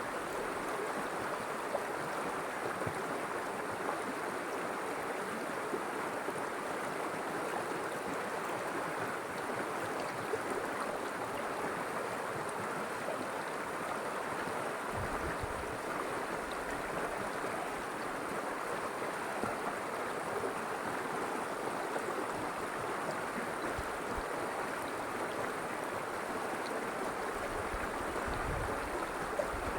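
River water flowing steadily, an even rushing wash of water with a few brief low rumbles partway through.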